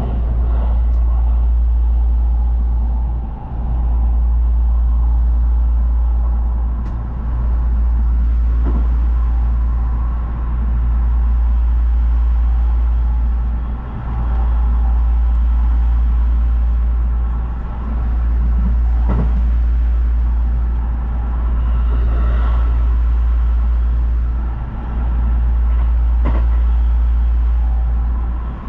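Steady low rumble of a moving vehicle, dipping briefly about every three to four seconds.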